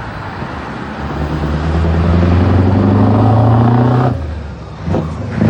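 A loud heavy truck engine pulling away, its note building and rising slowly. It drops off suddenly about four seconds in for a gear change, then comes back in hard near the end.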